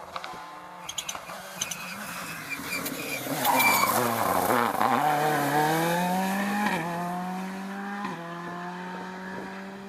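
Rally car at speed on a tarmac stage: the engine grows louder as it comes in, is loudest as it slows for a corner about four seconds in, then pulls away with the pitch climbing and two upshifts later on, with some tyre squeal.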